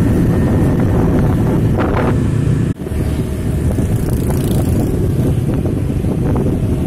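Steady vehicle engine and road noise with wind buffeting the microphone, with a brief drop-out almost three seconds in.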